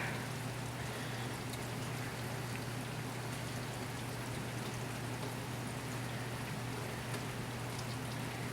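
Heavy thunderstorm rain coming in through an open window: a steady hiss with scattered drop ticks, over a low steady hum.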